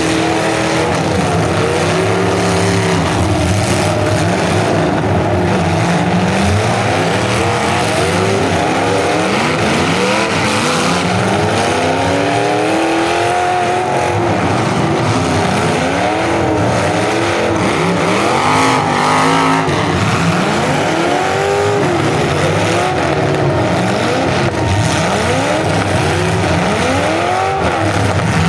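Several full-size demolition derby cars' engines revving hard at once, their pitch rising and falling over and over as the cars accelerate, back up and ram each other.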